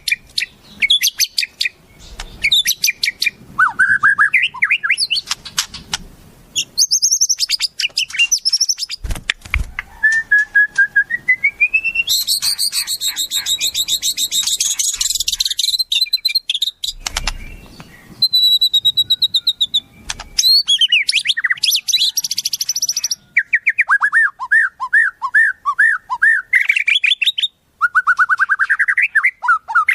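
Wild songbird calls played as a masteran tutoring track for magpie-robins: rapid chirps, fast trills and rising whistled phrases. The calls change abruptly every few seconds from one call type to another.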